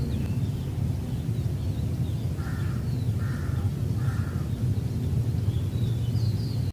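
A bird gives three short calls about a second apart, over a steady low rumble. Faint high chirps of smaller birds come near the start and near the end.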